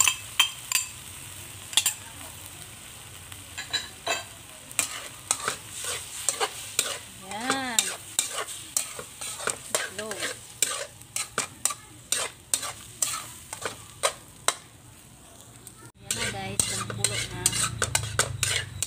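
Chopped hotdog and beaten egg sizzling in a metal wok while a fork stirs, scraping and clicking against the pan many times in quick succession.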